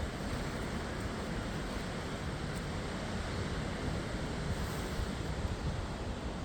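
Steady wind buffeting the microphone, an even low-heavy noise with no distinct barks or other events standing out.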